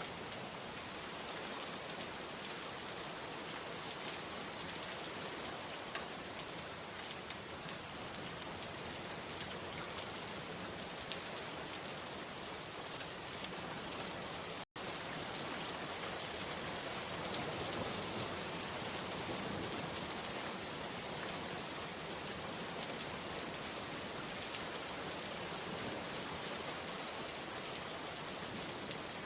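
Steady rain falling, an even hiss with scattered individual drops ticking on a surface. The sound cuts out for an instant about halfway through.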